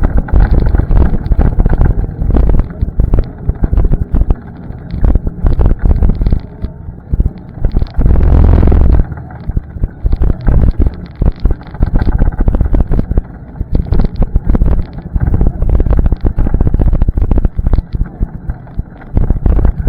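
ATV engine running while riding a trail, buried under heavy wind buffeting on the microphone that makes the level jump up and down; a strong gust around eight seconds in.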